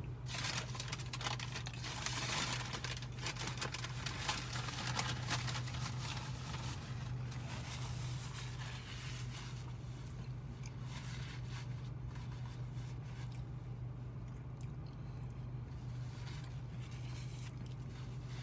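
Someone chewing a mouthful of pulled pork sandwich, with its aluminium foil wrapper crinkling and rustling, most busily in the first several seconds, over a steady low hum.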